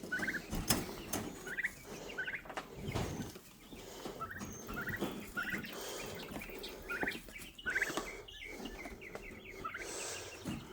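Young turkeys peeping in a brooder, short high calls repeated about every second, with scattered knocks as a waterer is set in and turned over.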